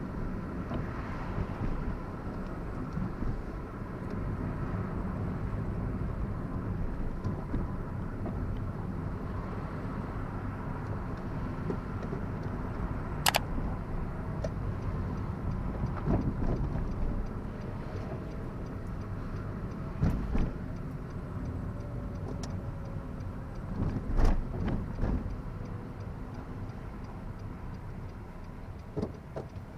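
Car engine and road noise heard from inside the cabin while driving, a steady low rumble. A sharp click comes about 13 seconds in, and a few short knocks follow later.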